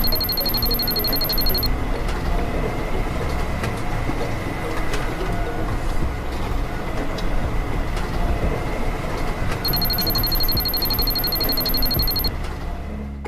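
Rapid electronic beeping in two runs of about two and a half seconds each, over a steady noisy rumble.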